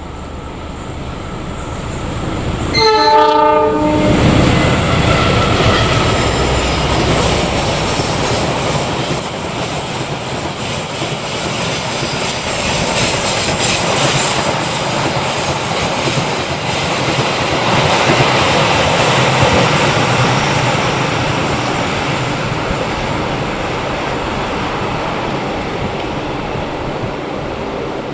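Passenger train's locomotive sounding a short horn blast about three seconds in, then the Argo Semeru train passing close by with a steady rumble and clickety-clack of wheels over the rail joints, slowly fading near the end.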